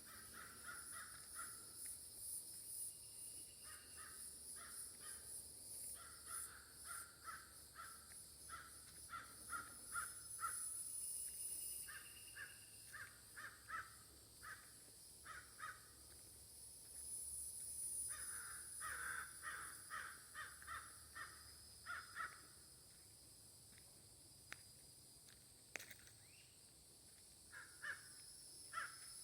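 A crow cawing faintly in bouts of quick repeated caws, with pauses between bouts.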